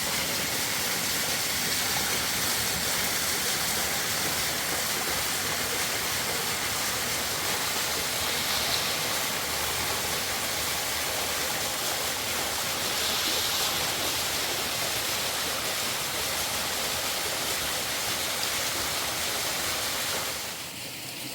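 Rushing water of a mountain river, a steady full hiss that drops away sharply near the end.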